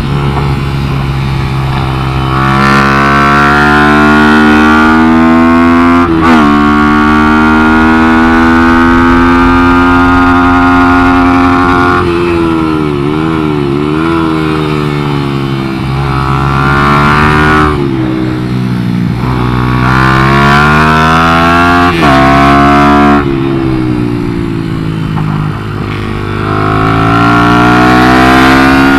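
Small motorcycle engine running hard on a track, heard from on board. Its pitch climbs under acceleration and drops back at gear changes and off-throttle moments, several times over.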